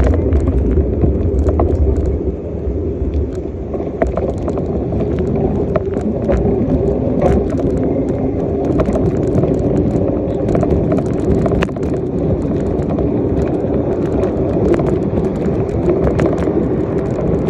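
Bicycle in motion: a steady rumble of the ride with frequent small rattles and clicks from the bike.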